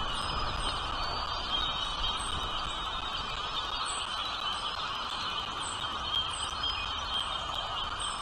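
Bird chirping: short, high chirps repeated about once a second over a steady background din.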